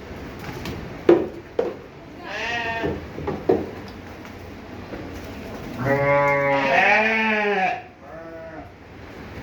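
Dumba (fat-tailed) sheep bleating three times: a short bleat about two seconds in, a long, loud bleat around six seconds, and a short one right after it. A couple of sharp knocks come about a second in.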